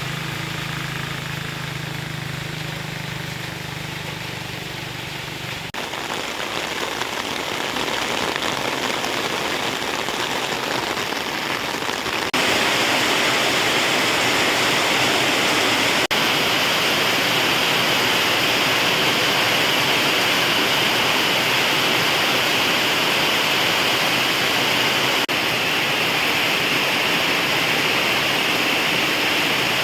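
Heavy rain pouring down as a steady hiss that gets louder in two sudden steps, about six and about twelve seconds in. A low steady hum underneath stops at the first step.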